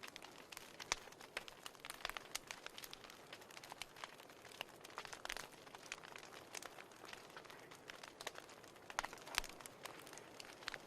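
Wood fire in a fireplace crackling: irregular sharp pops and snaps, several a second, over a faint hiss of burning.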